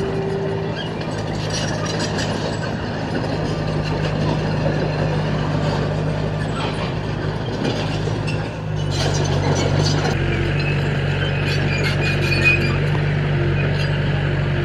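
Diesel engine of a heavy earthmoving machine running steadily, with faint metallic clanks. About eight and a half seconds in, the engine note becomes louder and deeper.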